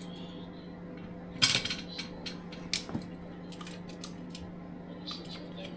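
Scattered clinks and clatters of small hard objects, the loudest about a second and a half in, over a steady low hum.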